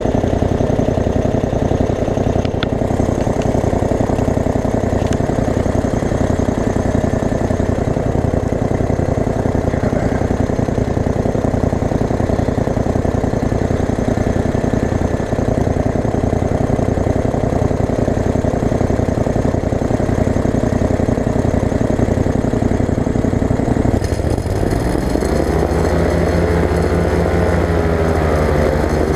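Ultralight aircraft engine and propeller running steadily. About 24 seconds in, the engine note changes and its pitch rises and wavers as the throttle is worked for the takeoff.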